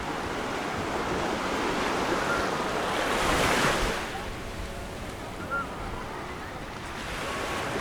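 Mediterranean sea waves washing onto the beach: a steady surf hiss that swells as a wave breaks about three and a half seconds in, then eases off.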